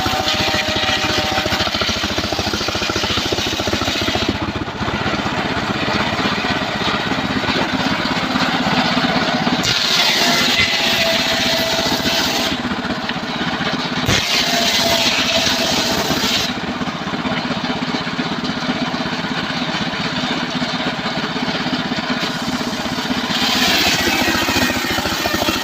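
Homemade engine-driven circular sawmill running steadily, its blade ripping through trembesi (rain tree) timber. The sound turns brighter and hissier for a couple of seconds at a time, about ten seconds in, again around fifteen seconds, and near the end.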